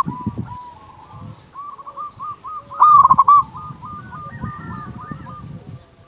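Zebra dove (perkutut) cooing: a run of short, quick notes with a loud stuttering phrase about three seconds in.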